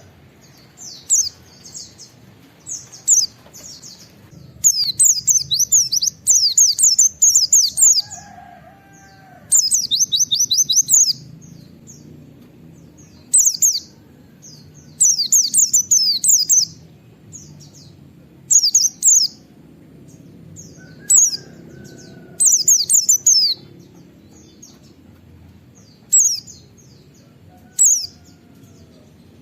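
White-eye (pleci) songbird singing in short bursts of fast, high-pitched repeated notes, the 'wit wit' phrases, each burst lasting one to two seconds with pauses between.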